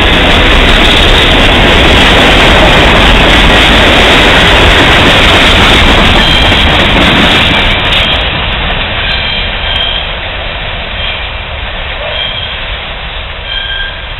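Freight train of covered hopper cars rolling past close by: a loud, steady rumble of steel wheels on rail that starts fading about halfway through as the end of the train passes and draws away. Short high squeals from the wheels come in the second half.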